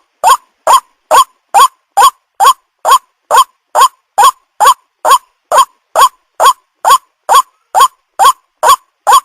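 White-breasted waterhen call: one short, harsh note repeated at an even pace, a bit over twice a second, played as a lure call.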